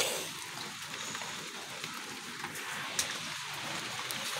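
Steady rain falling, an even hiss with a few sharp drop taps, one plainer about three seconds in.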